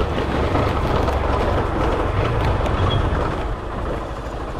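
Motorcycle riding over a rough sandy, stony dirt road: steady engine rumble mixed with wind and road noise and the rattle of the bike over the uneven ground.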